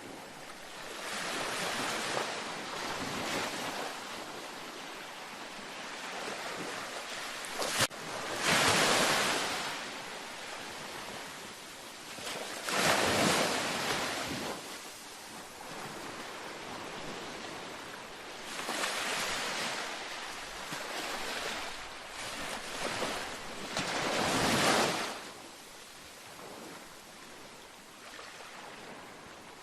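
Gentle ocean waves breaking and washing up a beach, each wave swelling and then fading, about five surges over half a minute. A single sharp click sounds just before the loudest surge, about eight seconds in.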